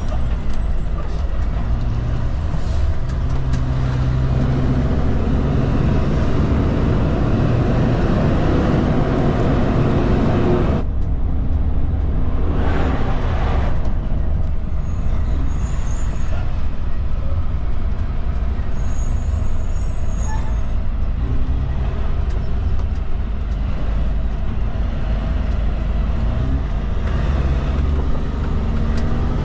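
Kenworth K200 road train's Cummins diesel engine running steadily under way, a constant low drone.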